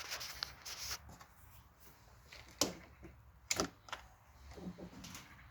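Quiet clicks and knocks: a few sharp ones, the loudest about two and a half seconds in and again about a second later, with no engine running yet.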